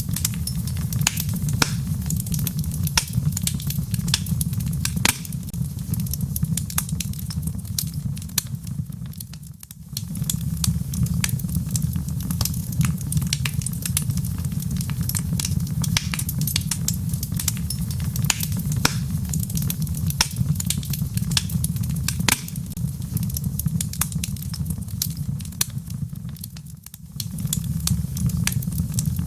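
Wood fire burning in a fireplace: a steady low rumble of flames under frequent sharp crackles and pops from the logs. The rumble dips briefly twice, about ten seconds in and near the end.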